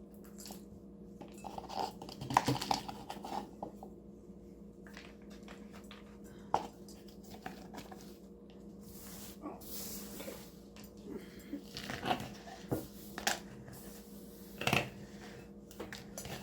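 Loose birdseed mixture being stirred and packed by hand: scattered crunching and rustling of seed, with a few sharp taps against the container and a longer hiss of pouring or scraping seed about two thirds of the way through.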